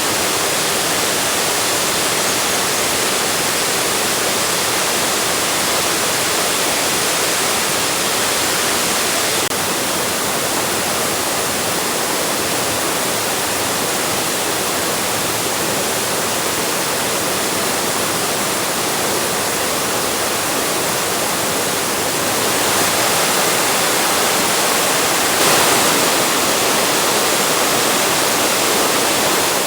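Waterfall: the steady, loud rush of falling water, an even noise with no pauses.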